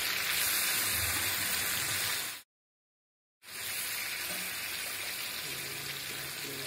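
Tiger prawns sizzling as they fry in hot oil in a kadai while being stirred. The sound drops out completely for about a second midway, then the sizzling resumes a little duller.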